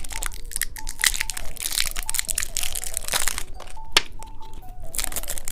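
Plastic candy packaging crinkling and crackling as it is unwrapped and handled, with irregular sharp clicks and snaps.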